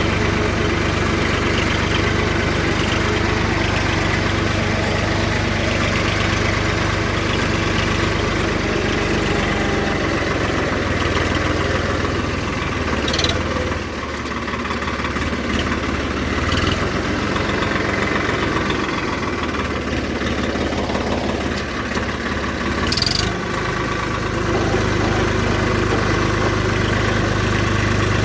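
Swaraj 960 tractor's diesel engine running steadily. Its note drops lower through the middle and comes back up a few seconds before the end, with a few short sharp clicks along the way.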